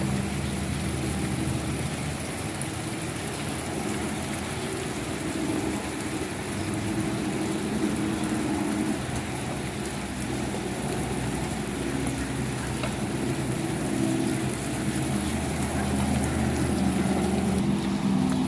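Soft rain falling in an even hiss, with a low engine-like hum running underneath that wavers in pitch.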